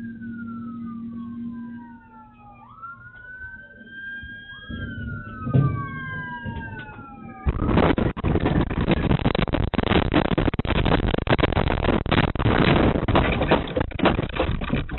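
Police car siren wailing in repeated rising and falling sweeps over a low steady hum. About seven and a half seconds in, it gives way suddenly to a loud, rough crackling rumble.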